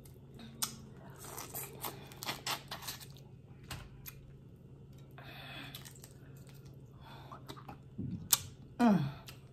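Boiled crawfish being cracked and peeled by hand and eaten: a run of small snaps, crackles and tearing of shell, with chewing. Near the end comes a louder smack and a short falling vocal 'ooh'-like sound.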